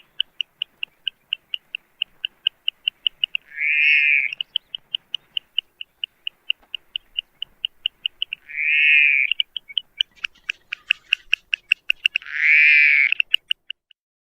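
An animal calling: a steady run of short, high ticks, about four a second, broken every four to five seconds by a longer, louder harsh call. It all stops suddenly near the end.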